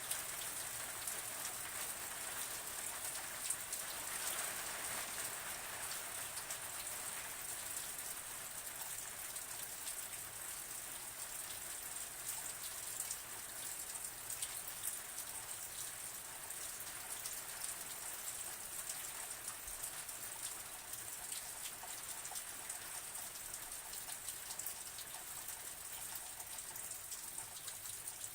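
Steady rain falling: a continuous even hiss with countless fine drop ticks.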